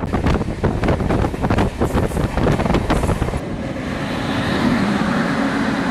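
A train running at speed, heard from an open coach door: wheels clattering on the track, with wind on the microphone. About three and a half seconds in, an Indian Railways electric locomotive passes close alongside on the next track, and the clatter gives way to a steadier hum.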